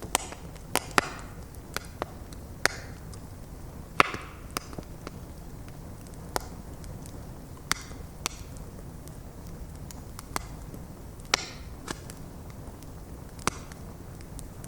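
Bonfire of stacked logs burning: wood crackling with irregular sharp pops, about fourteen of them, the loudest about four seconds in, over a steady low roar of the blaze.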